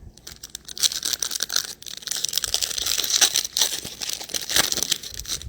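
Foil wrapper of a Panini Chronicles football card pack being torn open and crinkled. A dense run of crackling starts about a second in and lasts about four seconds.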